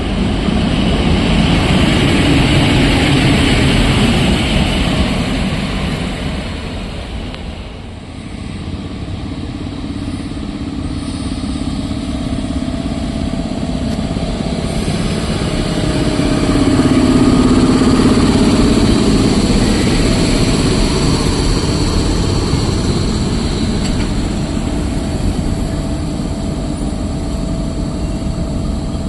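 EP07 electric locomotive running on the track while shunting, a steady rumble that swells twice and eases between, with a faint steady whine in the second half.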